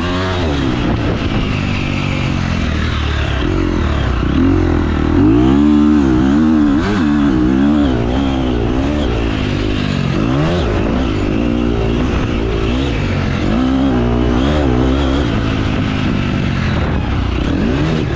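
Motocross bike engine being ridden hard, revving up and falling back again and again as the throttle opens and closes, its pitch rising and dropping every second or two.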